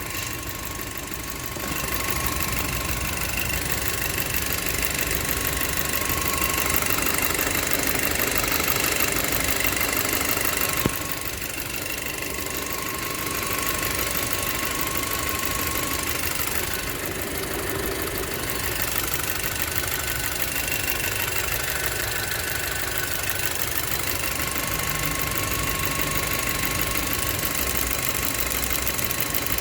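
Audi A4 B7 2.0T turbocharged four-cylinder engine idling steadily, with a thin high whistle over it that grows stronger and fades again every several seconds. The whistle is the unexplained idle noise the owner is asking about.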